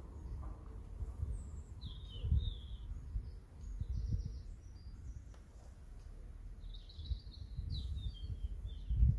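Small birds chirping in short twittering phrases, about three times, over a low uneven rumble with a few dull thumps.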